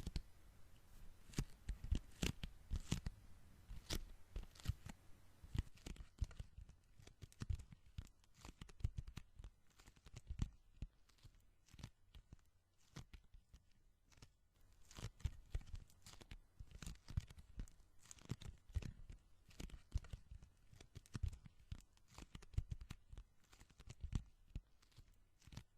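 Sticky hands and fingertips being pressed together and peeled apart, making irregular crackling, tearing-like pops several times a second. The pops are brighter and denser in the first few seconds and softer after that.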